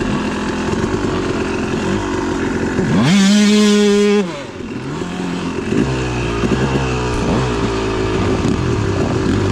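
Dirt bike engine running, then revving up sharply about three seconds in, holding high for about a second and falling off; after that it runs on steadily with the pitch rising and falling.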